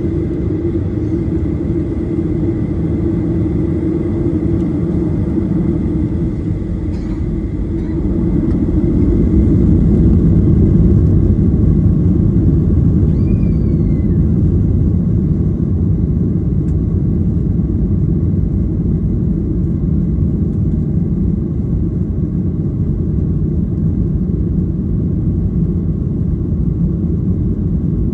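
Steady low rumble of a Ryanair Boeing 737's jet engines and airframe heard from inside the passenger cabin, growing louder about eight seconds in.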